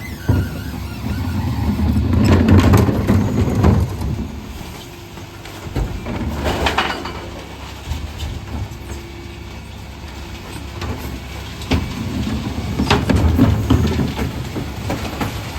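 Dennis Elite 6 refuse truck running while its bin lifters tip wheelie bins of mixed recycling into the hopper. The contents clatter and bang in two loud spells, one about two seconds in and one near the end, with a sharp ringing knock in between.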